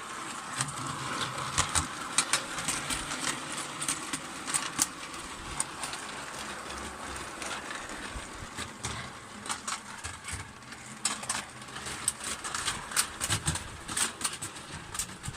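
Hornby O gauge tinplate model locomotive running along three-rail track pulling freight wagons: a steady whir from the locomotive with many irregular clicks and rattles from the wheels and tinplate wagons on the rails.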